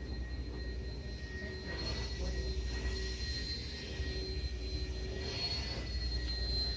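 Steady low mechanical rumble with a thin, high, steady whine over it.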